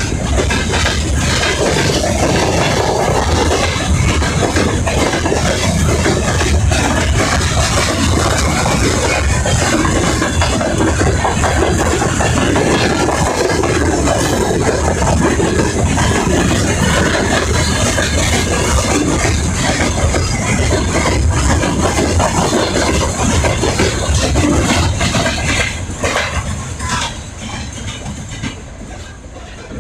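Freight train rolling past, its wagon wheels clacking over the rail joints in a steady run. The sound dies away over the last few seconds.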